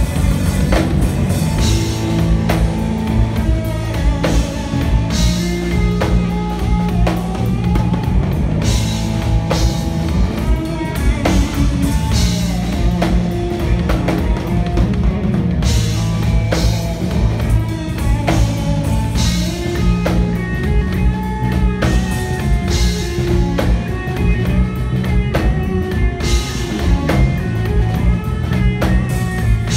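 Live band instrumental jam: electric guitar playing over a drum kit, with steady low notes under it and regular drum hits throughout.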